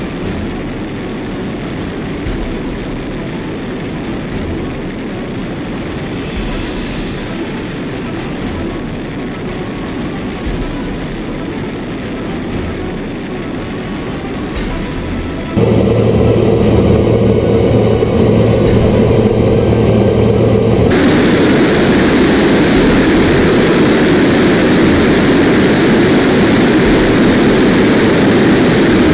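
Jet engine noise from a Tejas fighter's GE F404 turbofan, a steady roar across several edited clips. About halfway through it jumps abruptly louder with a steady low hum, and a few seconds later it changes abruptly to a louder, hissier roar.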